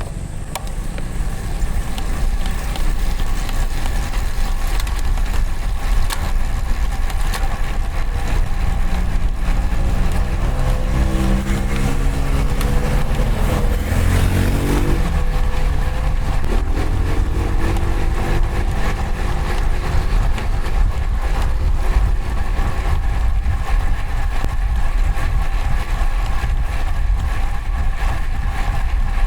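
Wind and road noise on a road bike's camera microphone while riding in traffic, with a motor vehicle passing close about halfway through, its engine pitch climbing and then dropping sharply as it goes by.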